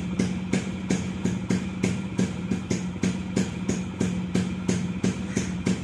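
Two-stroke motorcycle engine idling steadily: a constant hum with sharp, regular pops about three to four times a second.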